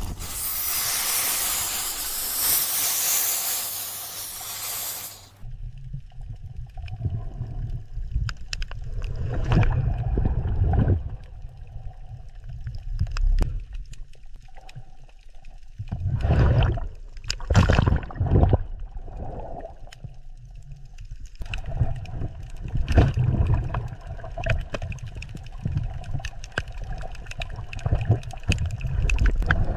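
Water sounds: a loud rushing hiss for about the first five seconds, which stops abruptly and gives way to low rumbling and gurgling with irregular sloshing surges.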